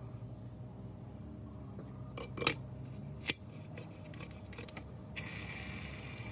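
Metal clinks and clicks, a short clatter a little over two seconds in and one sharp click about a second later, over a steady low machine hum; a steady hiss starts near the end.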